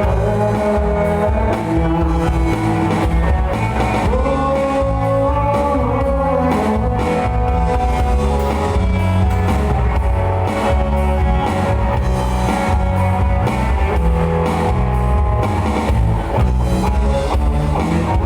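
Live band playing rock-style music: guitar melody over bass and drum kit, with no singing.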